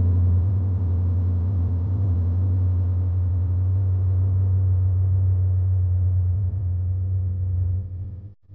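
Sport motorcycle engine idling steadily, then cutting off abruptly near the end.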